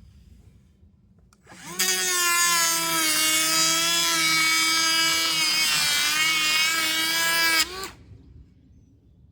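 Electric wood planer running for about six seconds as a board is planed. It starts about a second and a half in with a steady high whine, dips slightly in pitch near the end as if under load, then cuts off abruptly.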